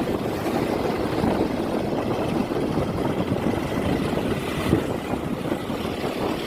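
Motorcycle engine running steadily while being ridden, with road and wind noise.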